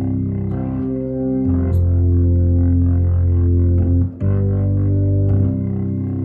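1960 Hammond P3 organ playing held chords over deep bass notes from its pedals. A loud low note comes in about a second and a half in, breaks off briefly near four seconds, and a second low note sounds until shortly before the end.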